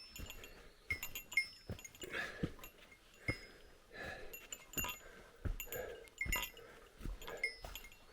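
A hiker's footsteps and knocks on a rocky mountain trail at an uneven pace, with heavy breathing and short, high bird chirps.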